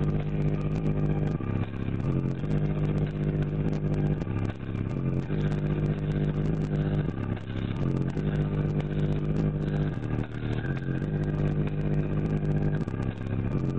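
Two MTX 9500-series 12-inch subwoofers playing a loud, bass-heavy track: a deep bass note held for about a second and a half at a time, repeating over and over, with quick ticking beats above it.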